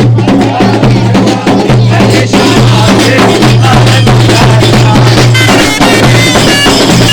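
Loud traditional wedding procession music: drums beating steadily, with a high piping melody coming in about five seconds in.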